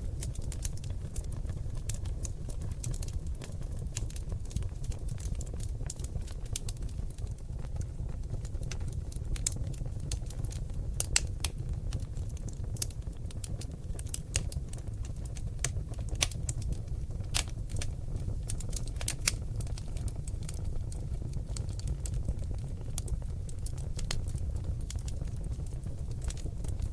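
Seasoned oak logs burning in a fireplace, crackling and popping: irregular sharp pops over a steady low rumble of the flames.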